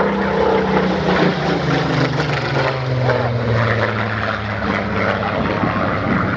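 Spitfire PR XIX's Rolls-Royce Griffon piston engine passing overhead, its propeller drone falling steadily in pitch as it goes by.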